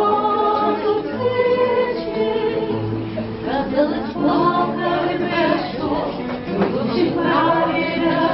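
Several voices singing together in harmony, holding long notes that change every second or so.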